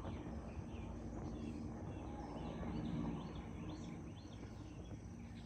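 Faint birds chirping in short calls, some falling in pitch, over a low steady outdoor background noise.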